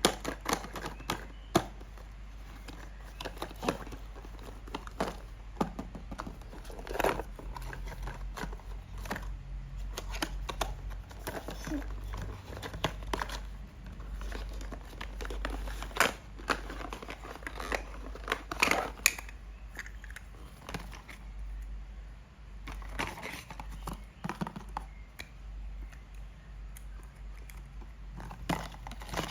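Toy packaging being handled and unwrapped: irregular crinkling, rustling and tearing of plastic and paper, with scattered sharp clicks, over a low steady hum.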